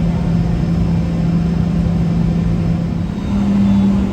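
Boeing 717's rear-mounted Rolls-Royce BR715 turbofans running at taxi power, heard inside the cabin as a steady hum over a rushing noise. About three seconds in, the hum rises in pitch and grows louder as the engines spool up a little.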